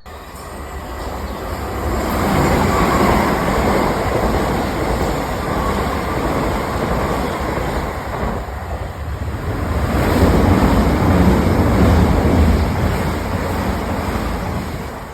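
Train running: a steady rushing noise that builds about two seconds in, eases off around eight seconds and swells again about ten seconds in.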